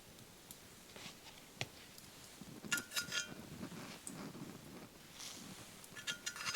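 Metal cutlery clinking against a metal dish, in two short clusters of ringing clinks, about three seconds in and again near the end, with light scraping between.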